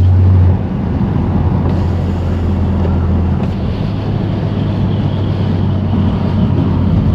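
BMW M3 Competition's straight-piped S55 twin-turbo inline-six drones steadily while the car cruises. It is loudest for the first half second, then eases off.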